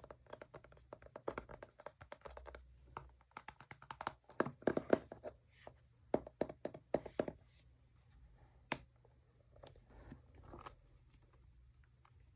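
Tapping and scratching on makeup packaging: quick irregular taps and scrapes, louder in two clusters around the middle and thinning out near the end.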